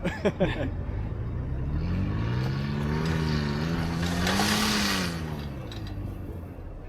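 Off-road truck's engine revving hard as it tries to push through deep snow. The pitch climbs for about three seconds, then drops away and fades, with a rushing hiss at the peak of the rev.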